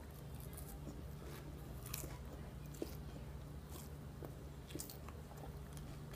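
Close-up chewing of a mouthful of salad, greens and dried crunchy apple chips: scattered, irregular crisp crunches over a faint steady low hum.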